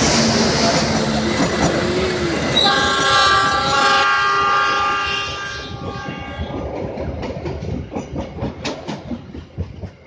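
Passenger train passing close, wheels clattering over the rail joints, with a locomotive horn sounding in several steady tones that stop about four and a half seconds in. The clatter then fades to a patter of clicks as the last coaches pull away.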